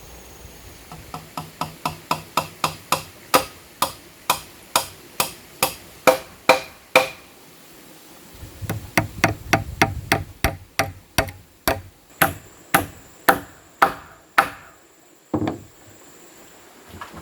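Hammer striking wood, about three quick blows a second in two runs with a short pause between, the blows starting light and growing louder in each run; a single duller knock follows near the end.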